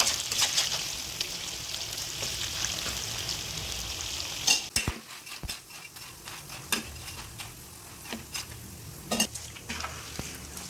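Banana slices frying in hot oil in a pan, a steady sizzle, with a utensil stirring and knocking against the pan now and then. The sizzle thins out about halfway through, leaving mostly scattered clinks and knocks.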